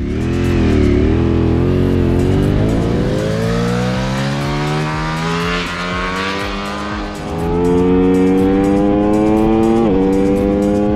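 Racing motorcycle engine at high revs on track, its pitch wavering for the first couple of seconds and then climbing steadily in one long pull, with a sudden drop near the end as it shifts up a gear.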